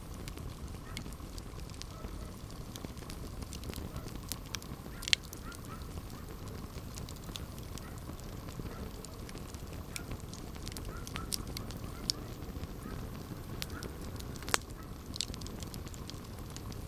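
Campfire crackling: many scattered sharp pops and snaps over a low, steady rumble of the burning fire, with two louder pops about five seconds in and again near the end.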